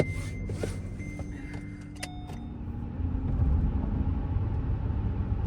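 Minivan driving, heard from inside the cabin: a steady low engine and road rumble that grows louder about three seconds in as the van picks up speed. A sharp click comes at the start, and a short click with a brief ringing tone comes about two seconds in.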